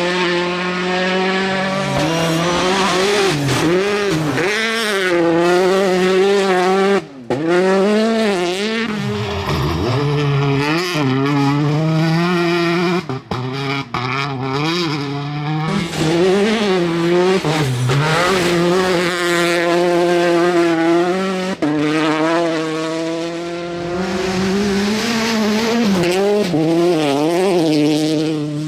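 Citroen DS3 R5 rally car's 1.6-litre turbocharged four-cylinder engine driven hard, its revs climbing and dropping over and over through gear changes, with brief cuts in the sound when the throttle is lifted.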